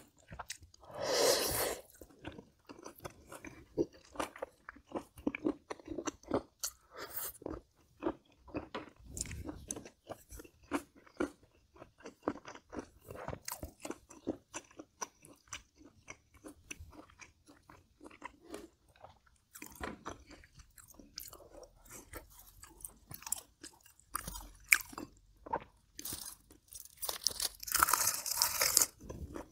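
Close-miked chewing of kimchi braised pork ribs: a steady stream of wet mouth clicks and crunchy bites. There is a louder stretch of mouth noise about a second in and another near the end.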